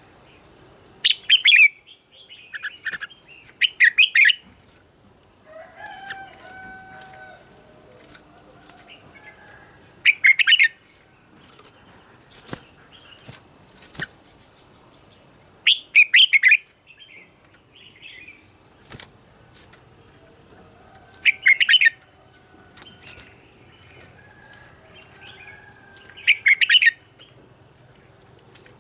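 Red-whiskered bulbul singing: short loud phrases that come back about every five to six seconds, with softer chirps and whistles between them.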